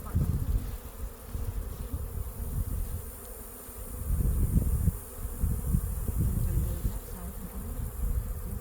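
Honey bees buzzing around an opened hive, a dense hum that swells and fades, loudest about four seconds in.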